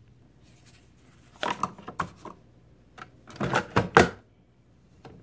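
Clatter of objects being handled: a run of sharp clicks and knocks, in one burst about a second and a half in and a louder one from about three to four seconds in.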